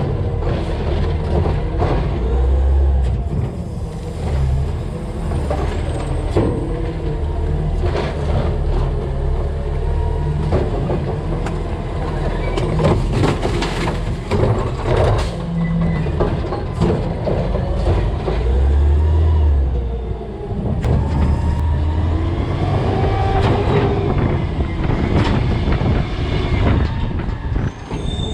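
A CNG DaDee Scorpion automated side-loader garbage truck at work: the engine running and swelling at times under hydraulic load, with repeated clanks, thuds and crunches of garbage landing in and being worked in the hopper. Sliding metal squeals come in the last few seconds.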